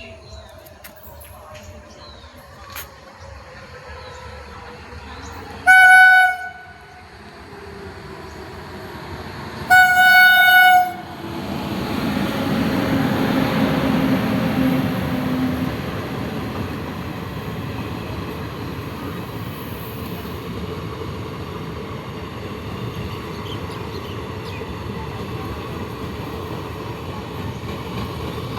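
Locomotive horn sounding two blasts, a short one and then a longer one about four seconds later. Straight after, the train runs past: its noise rises sharply, peaks for a few seconds, then carries on steadily.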